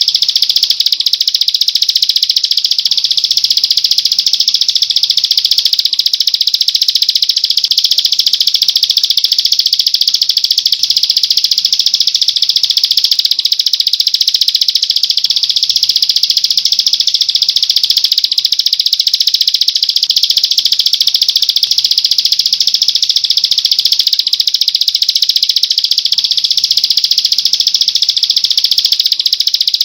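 Dense, continuous high-pitched songbird trilling, a fast rattling run of song without a break, from a bird-song training recording.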